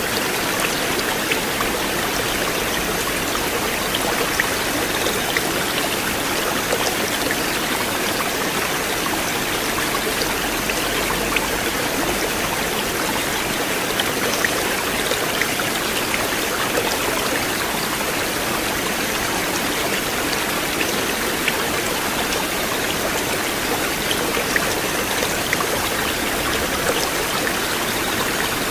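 River water flowing steadily: an even rushing with small, scattered splashes and drips through it.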